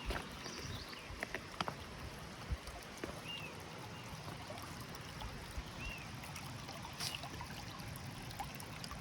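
Mountain stream running over rocks, a steady rushing. A few short high chirps come through it about three times, with scattered light knocks.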